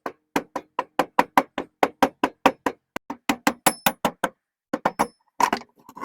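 A quick, even run of sharp metallic clicks, about five a second, thinning out to a few scattered clicks in the second half: hand-tool work on the car's rear axle.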